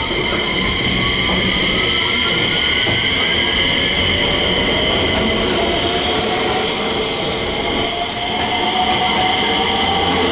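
JR West electric train running through the station at speed, with a steady high-pitched wheel squeal and a motor whine that slowly rises in pitch.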